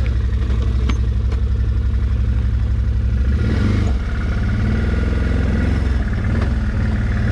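Off-road vehicle engine running steadily at low revs, with a brief change in revs about three and a half seconds in.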